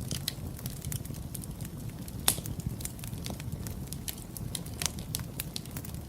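Wood fire burning in a fireplace, crackling with many irregular small pops over a steady low rumble, with one sharper, louder pop a little over two seconds in.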